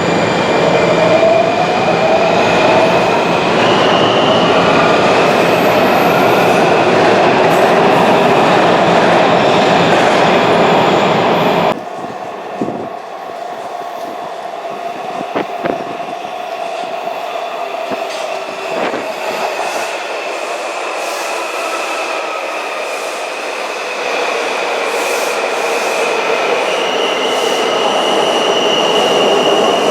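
Washington Metrorail train running through a station, its motor whine rising in pitch and high wheel squeal over loud rail noise. About 12 seconds in it cuts abruptly to a quieter train passage with clicking over rail joints and a steady whine.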